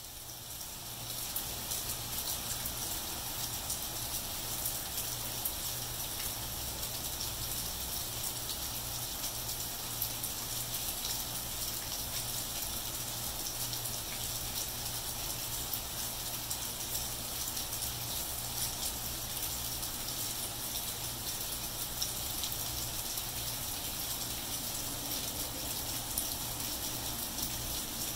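Steady rain falling on a wet, puddled parking lot, a dense hiss with many small drop ticks, fading in over the first second or so. A low steady rumble runs underneath.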